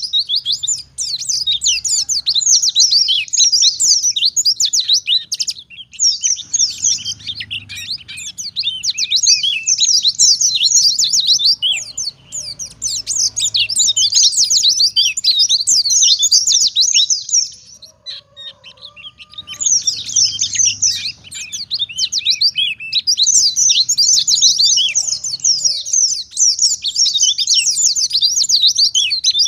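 Wild-caught white-eye (pleci) singing at full pitch: long runs of fast, high twittering, broken by a short pause about six seconds in and a longer one past the middle.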